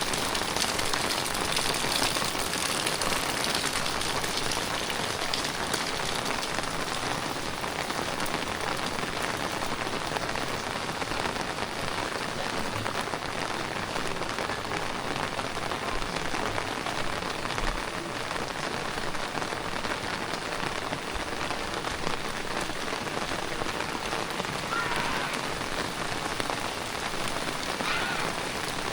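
Heavy tropical rain falling steadily and evenly on the ground and surfaces, a dense hiss of drops.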